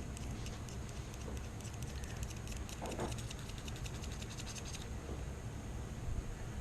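Quick, small scratching strokes of a tool scraping carbon fouling off Colt AR-15 rifle parts, stopping about five seconds in.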